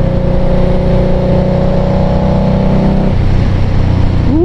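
Indian Scout Bobber Twenty's liquid-cooled V-twin running steadily at riding speed, with wind rush; the engine note drops about three seconds in.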